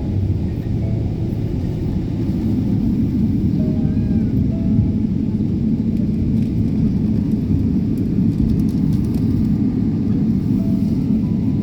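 Cabin noise of an airliner taxiing after landing: a steady low rumble.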